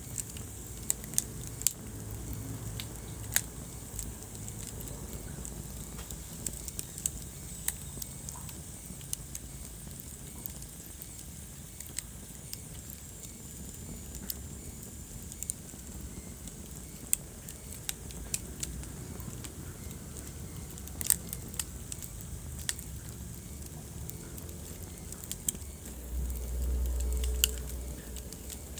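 Wood fire crackling in a fireplace: irregular sharp pops and snaps over a steady low rumble of the flames, which swells briefly near the end.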